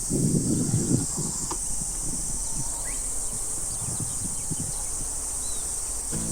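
Steady high-pitched chorus of insects, with low rustling and bumping noises loudest in the first second.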